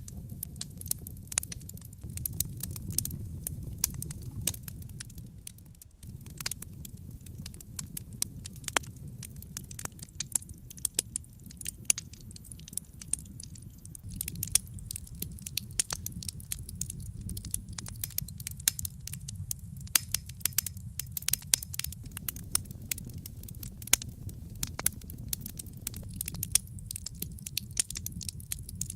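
Wood fire crackling, with frequent irregular sharp pops and snaps over a steady low rumble of the flames. The sound briefly drops away about six seconds in, then resumes.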